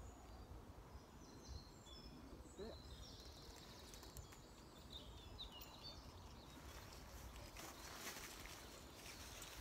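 Faint woodland birdsong: scattered short chirps and whistles from small birds over a low background rumble, giving way to a soft rustling in the last few seconds.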